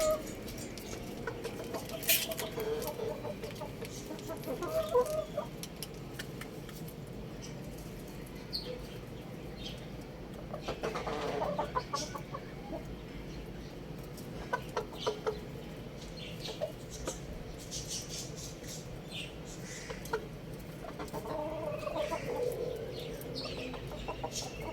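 Chickens clucking in short calls that come in several clusters, with scattered sharp clicks in between.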